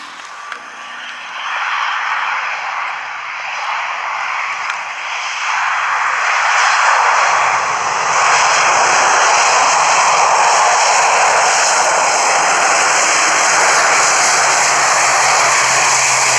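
Airliner engines growing louder as the aircraft comes close, then running loud and steady from about seven seconds in, with a low hum underneath.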